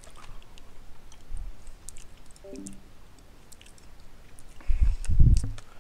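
A person chewing ramen noodles with small wet mouth clicks. Near the end comes a loud low thump.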